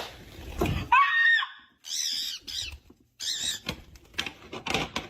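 A parrot giving three high-pitched squawking calls that bend in pitch, about a second apart.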